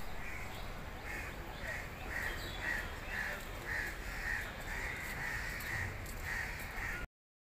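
A bird calling over and over, short even calls at about two a second, over a low steady rumble.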